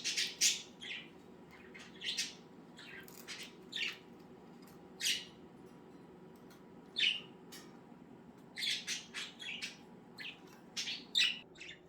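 Pet budgerigars giving short, sharp chirps and squawks, some single and some in quick runs of several calls, over a faint steady hum.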